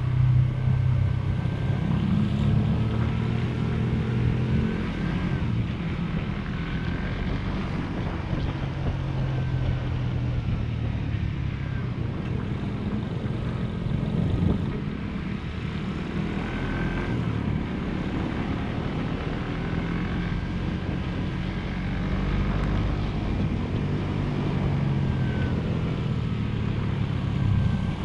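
Motorcycle engine running on the move, its pitch rising and falling several times as it revs and changes speed, over a steady rush of wind and road noise.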